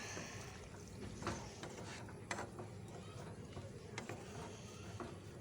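Metal spoon clicking and scraping against the cooking pot as chicken in green masala is stirred and checked, with a few sharp, irregularly spaced clicks.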